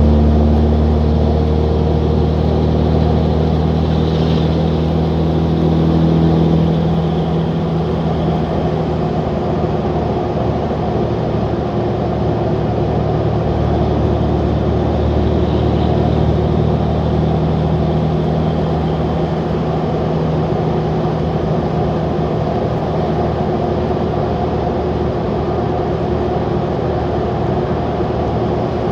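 Straight-piped 2003 Cummins 5.9-litre inline-six turbo diesel running on the move, a loud, steady drone whose note changes a few times.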